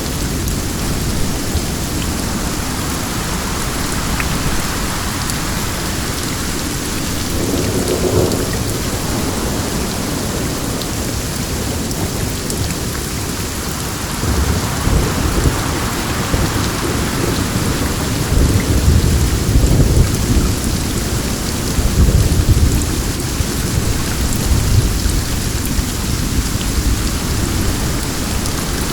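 Steady heavy rain, with a low rumble swelling in and out over the second half.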